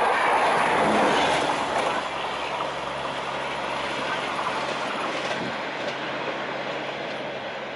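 Express train passing at speed: a loud rush of coaches and wheels on the rails, with a clickety-clack over the rail joints. Between one and two seconds in it drops to a quieter, more distant train rumble with a low steady hum underneath.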